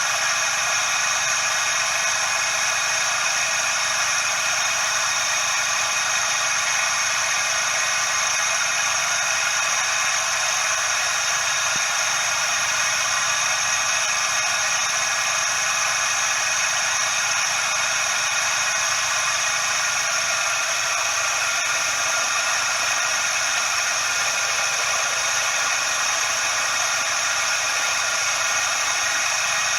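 Suzuki Every DA64V engine running, with its belt tensioner pulley bearing giving off a steady, high hissing whir laced with whining tones: the sign of a failing tensioner bearing, typically one whose grease has run out.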